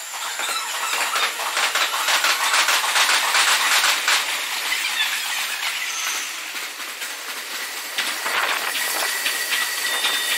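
Red Meitetsu electric train running through on the tracks, its sound sped up fourfold: the wheel clatter over rail joints comes as a fast, dense rattle, and a high steady whine sets in near the end as the train runs close by.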